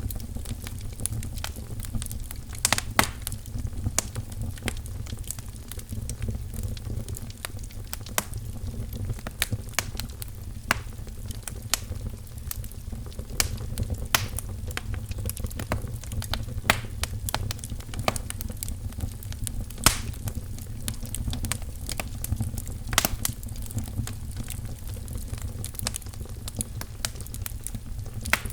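Wood fire crackling in a fireplace, with frequent irregular snaps and pops over a steady low rumble.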